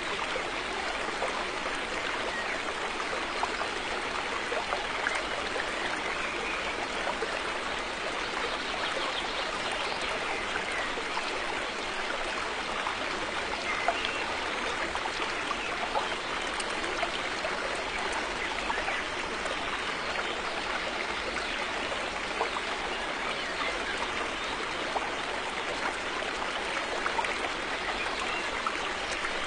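River water flowing over rocks: a steady rushing wash of water with small splashes and trickles running through it.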